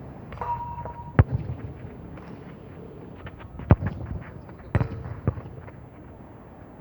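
Football being kicked on a school playground: sharp thuds of foot on ball about a second in, near the middle, and twice more a second or so later, over steady outdoor wind noise.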